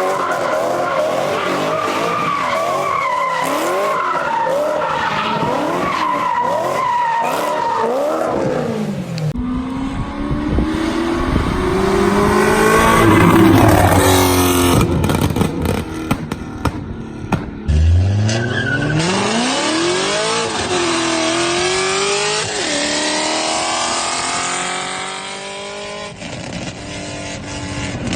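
BMW E9X M3's S65 V8 with aftermarket exhausts, heard in three clips one after another. First the engine speed wavers up and down. Then it revs up and back down, loudest about halfway through. Last it climbs hard from low revs, drops sharply once near the end and climbs again.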